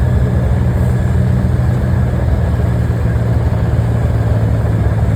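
Engine running steadily, a loud, unchanging low drone.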